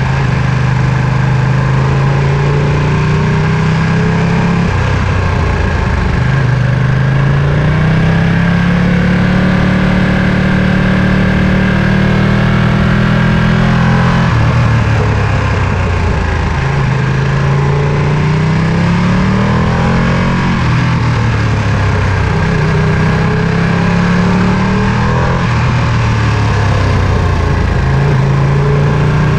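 Ducati Panigale V2 superbike's V-twin engine under way, its pitch climbing in long rises as it pulls and dropping back several times.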